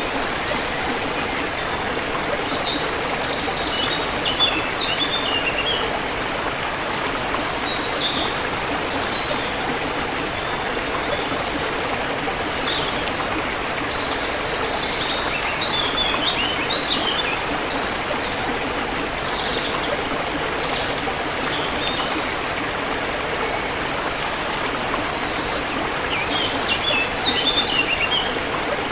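A forest river flowing steadily, with birds singing short chirping phrases over it every few seconds.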